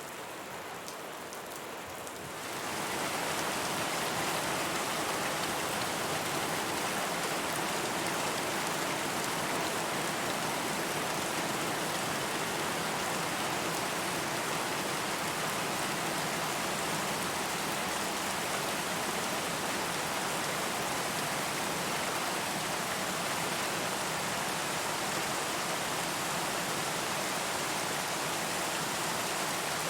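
Steady rain falling, an even hiss of noise. About two and a half seconds in, it changes to a louder, fuller wash that then holds steady.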